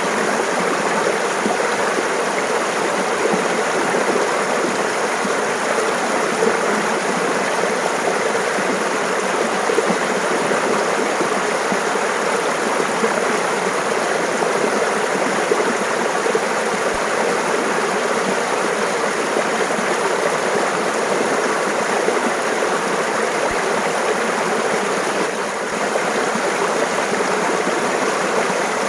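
Mountain stream running and babbling steadily over rocks.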